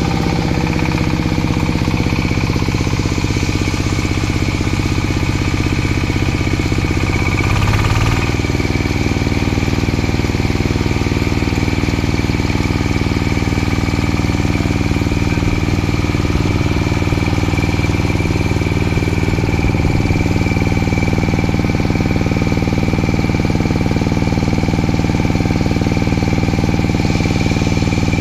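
Manure grinding machine running steadily under engine power, with a constant high whine over the engine note. About eight seconds in, the running note shifts briefly and then settles again.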